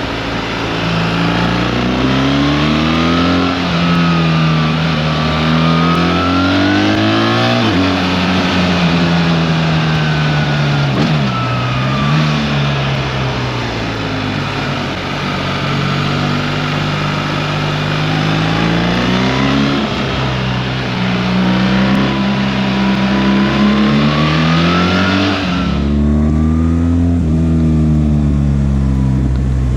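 BMW R 1300 GS boxer-twin engine heard from the saddle under way, its revs climbing and dropping back again and again as it pulls through the gears, over heavy wind rush. Near the end the wind rush falls away abruptly while the engine keeps running.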